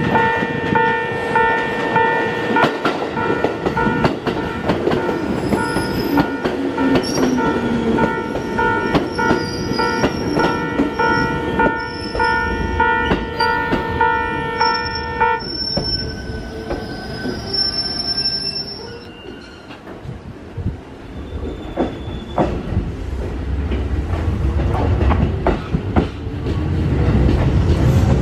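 Japanese level-crossing alarm ringing its rapidly repeated electronic bell while a JR East 205 series 3100 commuter train runs past into the station, its wheels squealing high. The bell stops sharply about halfway. After a brief lull, a second 205 series train's running noise builds to a loud rumble near the end.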